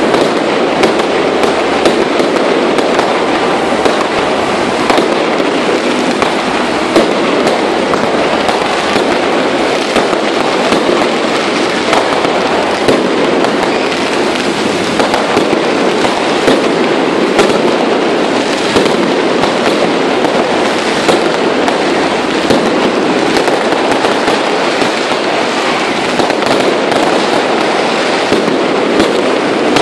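Aerial fireworks display going off without pause: a dense, loud crackle of bursts and pops with many sharp bangs all through.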